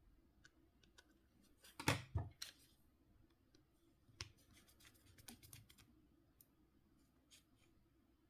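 Small, sharp clicks and taps of Nokia C5-00 phone parts being handled and fitted during reassembly, with two louder clicks close together about two seconds in.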